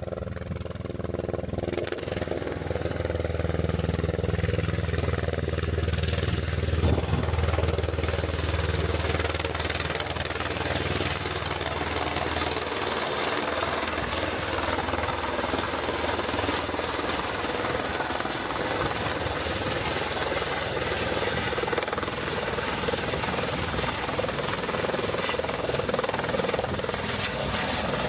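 Helicopter in flight: steady rotor and engine noise with a high, steady whine above it. The low rumble eases after about seven seconds.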